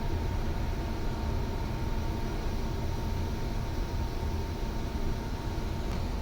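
Ship's machinery droning steadily: a low rumble with a faint constant whine above it.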